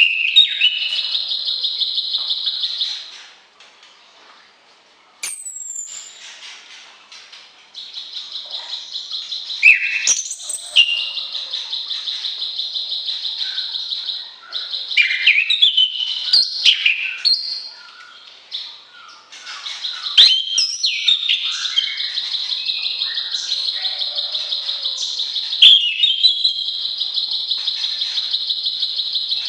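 Songbirds singing: long, fast, buzzy trills broken by varied chirps and whistled phrases, typical of plain prinia and orange-headed thrush song. The song pauses briefly twice.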